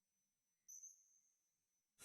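Near silence, broken by one brief, faint high-pitched chirp a little under a second in.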